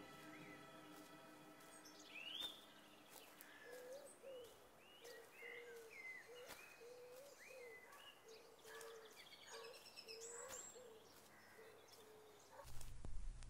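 Faint outdoor birdsong: scattered chirps and short whistled calls, with a lower call repeated every half second or so. A low rumble comes in near the end.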